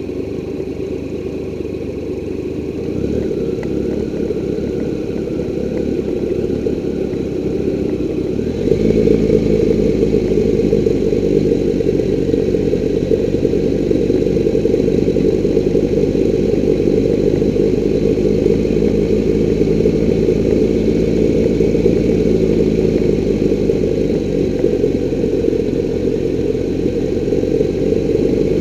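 Triumph Tiger 1200 three-cylinder engine running steadily at low road speed, picked up by a camera mounted on the bike. About nine seconds in the sound suddenly gets louder and deeper, then holds steady.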